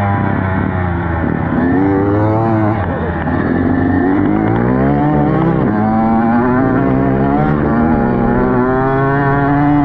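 Dirt bike engine being ridden, its pitch rising and falling repeatedly as the throttle opens and closes through the gears.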